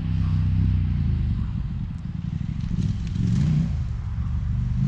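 Dual-sport motorcycle engine running, its revs rising and falling.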